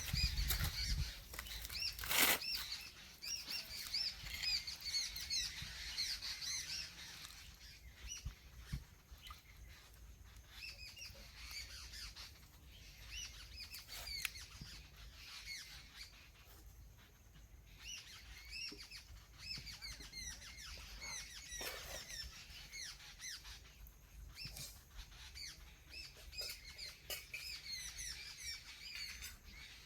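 Many small birds chirping and twittering, thickest in the first several seconds and again near the end, with a few scattered knocks.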